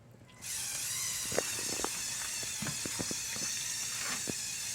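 Lego Technic tractor's electric motor and gearing switching on about half a second in and running steadily as it pulls the weighted sled, a hissing whir with scattered small clicks from the gears and bricks.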